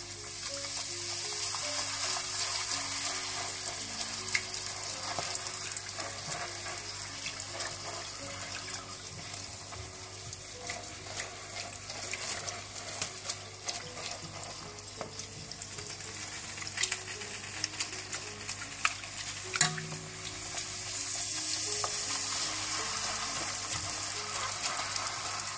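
Golgappa puris of semolina and flour dough sizzling as they deep-fry in hot oil, a steady hiss, with occasional light clicks from a metal slotted spoon moving them in the pot. Soft background music plays underneath.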